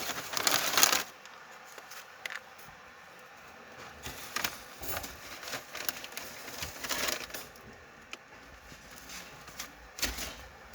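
Freshly lit firewood crackling in the firebox of a Russian stove, with irregular snaps and pops. A brief loud rushing noise comes in the first second.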